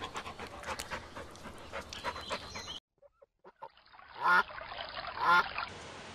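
A poodle panting in quick, irregular breaths, then after a short break a duck quacks twice, loud, about a second apart.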